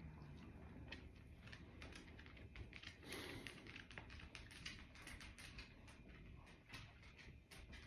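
Faint, irregular run of quick clicks and taps, like keys or fingertips tapping, thickest in the middle of the stretch.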